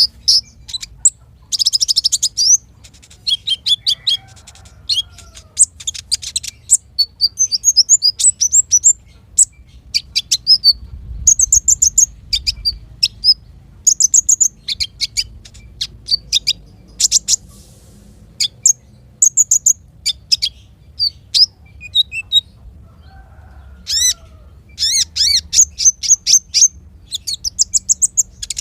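Small songbirds singing rapid, high-pitched chirps, trills and short sweeping notes in dense bursts, with brief pauses between phrases.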